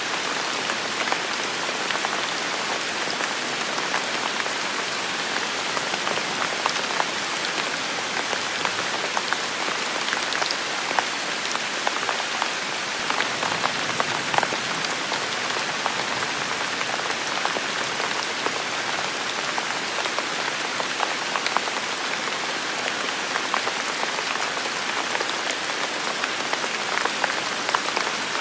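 Heavy rain falling steadily, with a constant hiss and many close individual drops pattering sharply on surfaces.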